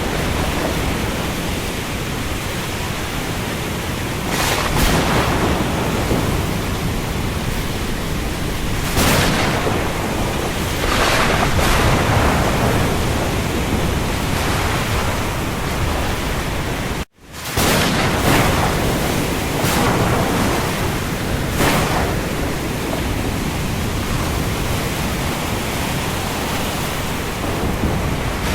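Steady, dense rain hiss with a low rumble underneath, swelling every few seconds like waves washing. The sound drops out for a split second about two-thirds of the way through, then resumes.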